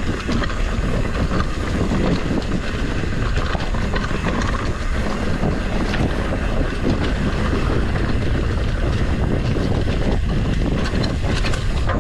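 Wind rushing over a GoPro's microphone as a mountain bike rides down a rocky trail, with a steady rumble and many small knocks and rattles from the tyres and bike over the rocks.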